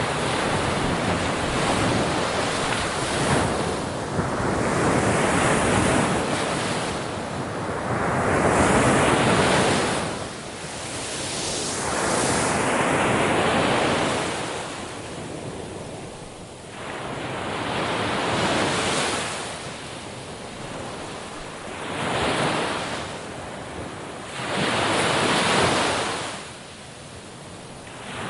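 Sea waves breaking on a shore and washing back, a hiss that swells and fades every few seconds, about eight surges of uneven strength.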